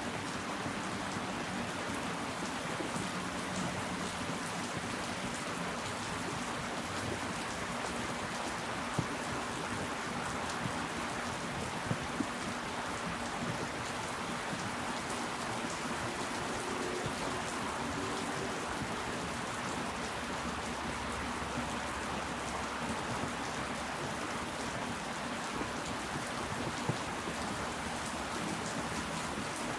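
Steady rain falling, with a few louder single drops striking now and then.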